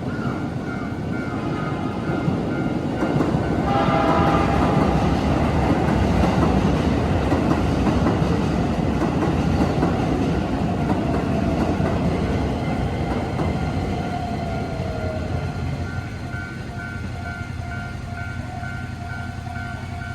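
Keisei Main Line electric train passing over a level crossing, its wheels clacking over the rail joints, with a brief horn sounding about four seconds in. The crossing's warning bell rings in an even pulsing beat, standing out near the end as the train noise fades away.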